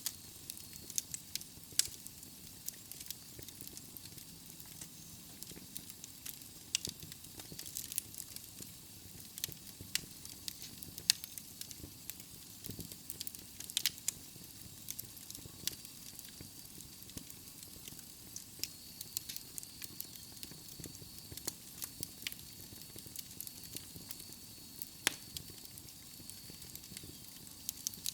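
Wood logs burning in a fireplace, with a steady hiss and irregular sharp crackles and pops, one louder pop about eleven seconds in.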